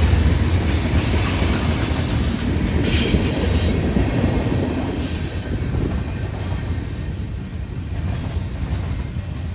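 Freight cars rolling past on the rails with a steady rumble, the wheels squealing in short high-pitched spells during the first half. The sound gradually fades as the cars move away.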